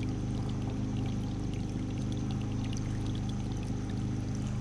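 Wash water pouring steadily out of a portable washing machine's drain hose at the start of the drain cycle, over a steady low hum.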